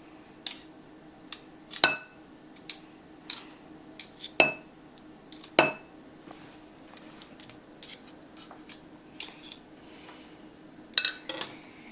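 A knife clinking and scraping against a bowl as guacamole is scooped out. The clinks are sharp and irregular, some with a brief ring, and most fall in the first six seconds.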